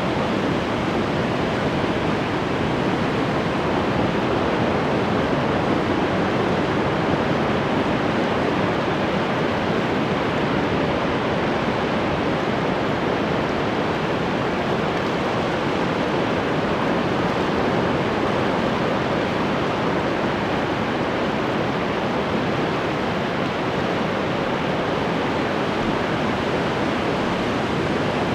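Ocean waves breaking and washing on the shore in a steady, continuous wash of surf noise, with no single wave standing out.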